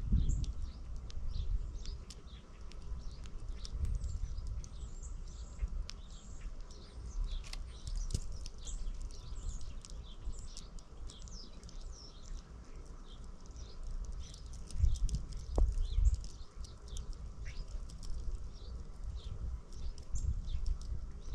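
Many small songbirds chirping and twittering busily, with short high calls coming constantly, over low gusty rumbles of wind on the microphone that swell near the start, in the middle and near the end.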